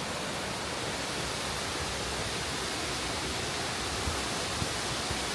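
Steady rushing of Düden Waterfall, an even noise of falling water.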